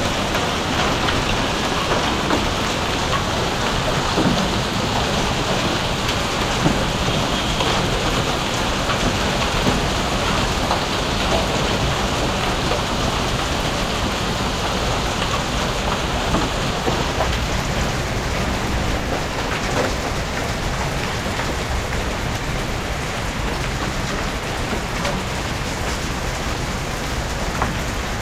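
Heavy rain falling steadily, with many sharp individual hits on hard surfaces. It eases slightly after about seventeen seconds.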